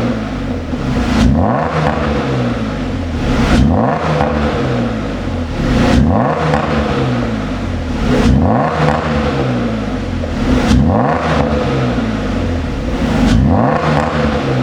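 Chairman W CW700's 3.6-litre straight-six blipped repeatedly through an aftermarket valved (variable) exhaust, about six revs that each rise and fall back, roughly every two and a half seconds.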